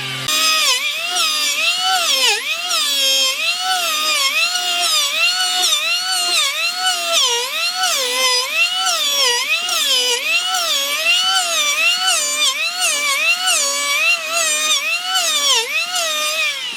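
Handheld electric power tool whining at high speed, its pitch dipping and recovering about once a second as it is worked into the wood under load.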